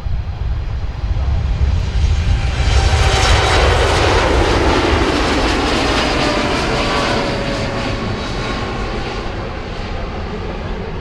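Jet airliner passing the runway-side spotting area: engine noise swells to a peak a few seconds in, then slowly fades, with a whine that drops in pitch as it goes by.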